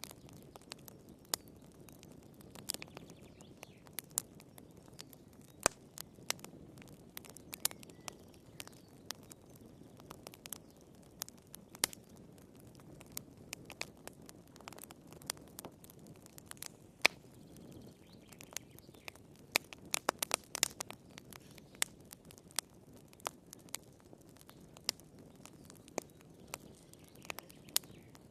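Wood fire crackling in a fireplace: irregular sharp pops and snaps over a soft steady background, with a quick run of pops about two-thirds of the way through.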